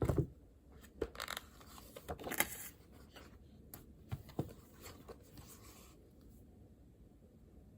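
Desk handling sounds while settling in to study: a knock at the start, then short scratchy rustles of paper and pen and a few light taps, dying away to faint room tone about six seconds in.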